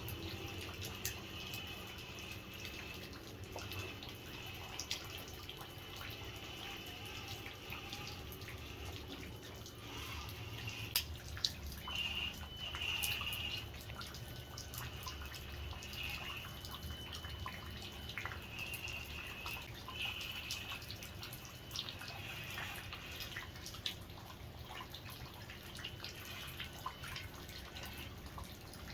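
Rainwater dripping: many separate drops heard as small sharp ticks over a steady low rumble. A short high-pitched whine comes and goes several times in the middle.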